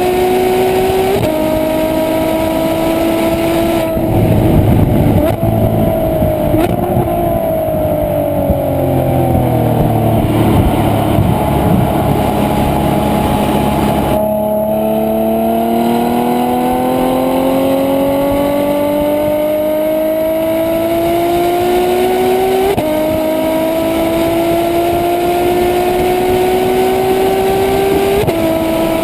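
Ferrari F12 Berlinetta's V12 engine pulling through the gears. The revs climb steadily and drop suddenly at each upshift, three times. In the middle there is a louder stretch where the revs fall away before climbing again.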